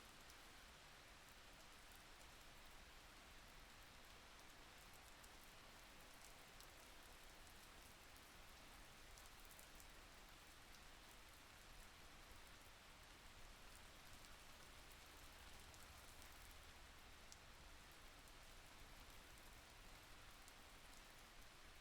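Faint, steady rain, a soft even patter with scattered light drop ticks.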